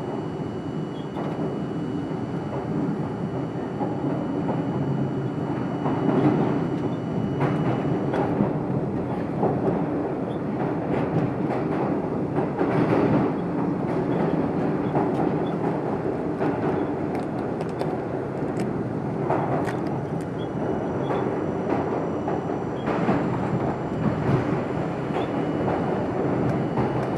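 R42 subway cars running at speed: a steady rumble of steel wheels on the rails, with scattered clicks and knocks over rail joints.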